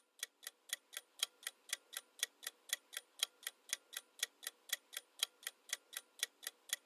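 Ticking countdown-timer sound effect: short, even clock-like ticks at about four a second, counting down the guessing time.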